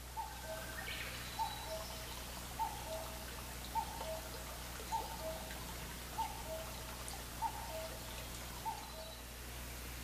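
A wild bird repeating a two-note call, a higher note followed by a lower one, about eight times at an even pace of roughly one call a second. Other birds chirp faintly in the first couple of seconds.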